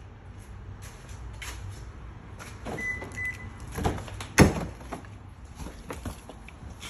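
Handling sounds at a Toyota Century: clicks and knocks, two short high beeps near three seconds in, and a car door shutting with one sharp, loud thud about four and a half seconds in, over a low rumble.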